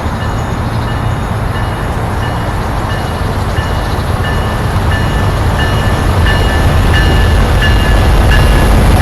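Freight train passing close by, a steady low rumble that grows louder throughout. Short high ringing tones repeat about every two-thirds of a second, coming closer together near the end.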